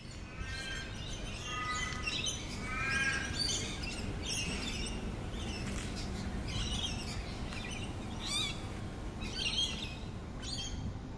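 Several birds chirping and calling, with a few harsher calls in the first three seconds, over a steady low background noise.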